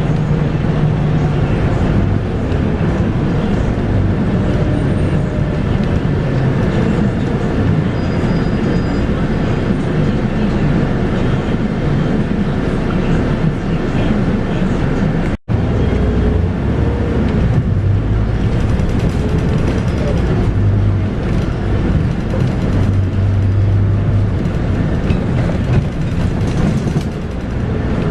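Scania K230UB bus's 8.9-litre five-cylinder DC9 diesel running under way with its ZF Ecomat six-speed automatic, heard from inside the cabin; the low engine note shifts in pitch and strength as the bus drives. The sound cuts out for a split second about halfway through.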